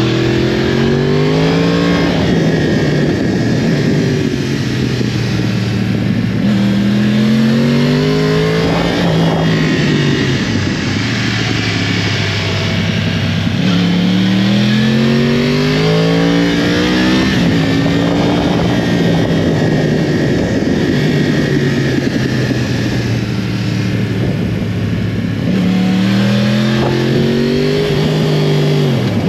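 2012 Yamaha YZF-R1's crossplane inline-four engine revving hard and easing off again and again as the motorcycle is ridden through bends: the pitch climbs under acceleration, then drops back between bursts, several times over. A steady rushing noise runs underneath.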